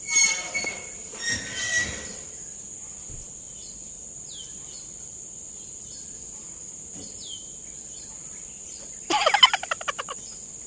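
Loud bird calls from the forest, once near the start and again about nine seconds in, the second a rapid run of rattling notes; two short falling whistles in between. A steady high insect drone runs underneath.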